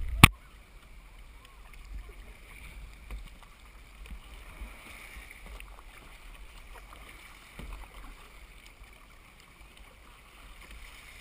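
Paddling a kayak, with faint water sounds and wind rumbling on the microphone. A single sharp knock comes right at the start.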